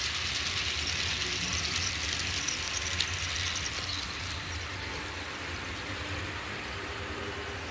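HO-scale model train running along the layout track: a steady rolling hiss of wheels on rail over a low motor hum, growing gradually fainter.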